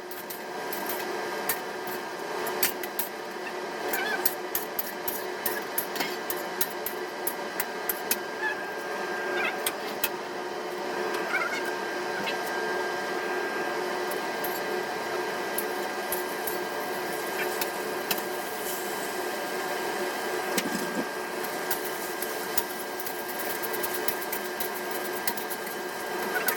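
A steady motor hum with scattered light clicks and taps.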